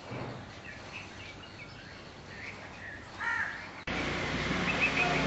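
Birds calling in short, separate calls over faint background noise. About four seconds in, the sound cuts abruptly to a louder steady noise with a low hum.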